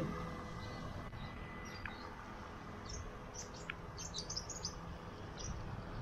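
Birds chirping: short high calls, bunched mostly between about three and five seconds in, over a steady low rumble.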